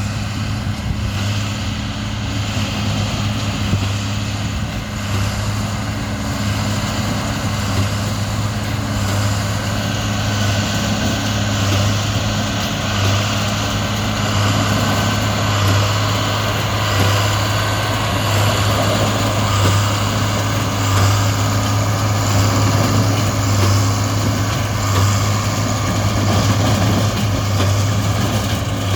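Large diesel engine running at a steady speed, a constant low hum.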